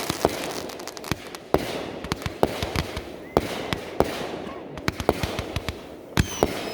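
Consumer fireworks going off: a quick, irregular run of sharp bangs and pops over crackling hiss, with a brief whistle near the end.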